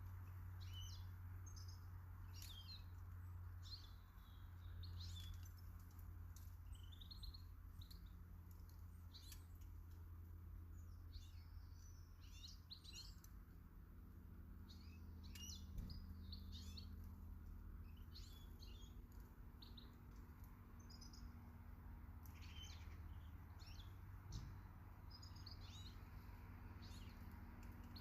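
Faint chirps and short calls of small garden birds, many and irregular, over a low steady hum.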